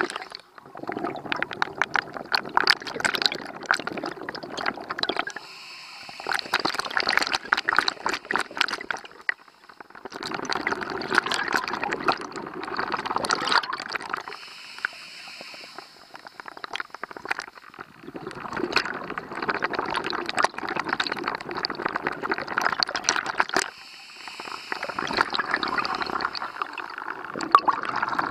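Scuba diver breathing through a regulator underwater: long bubbling exhalations of three to five seconds, each followed by a short hissing inhalation, in a slow, even rhythm.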